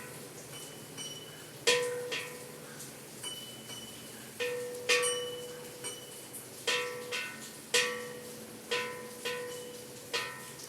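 Bells of a bell tower rung in an irregular peal: about a dozen separate strikes, each ringing on briefly in clear tones. Bells of different pitches alternate, and a few strikes are louder than the rest.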